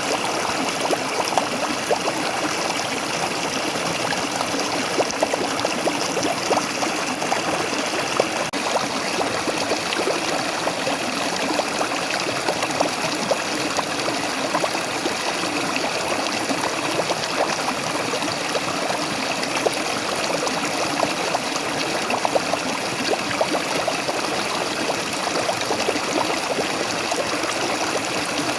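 Waterfall water falling and splashing steadily, a dense, even rush with many small splashes and trickles through it.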